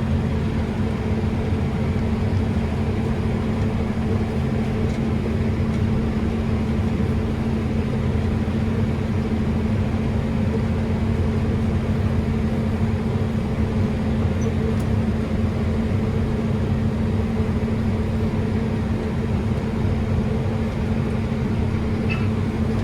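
Steady drone of harvest machinery heard from inside its cab, with a constant low hum that does not change.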